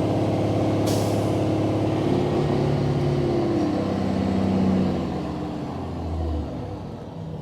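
Mack semi truck's diesel engine running under load as the rig manoeuvres, its pitch shifting, then easing off after about five seconds. A short air hiss sounds about a second in.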